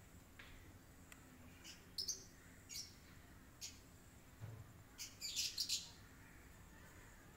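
Small birds chirping: short, high chirps scattered through, with a quick run of several chirps about five seconds in.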